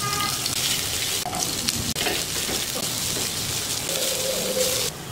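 Ginger and sliced onion sizzling in hot oil in a frying pan while a spatula stirs them. The steady sizzle cuts off near the end.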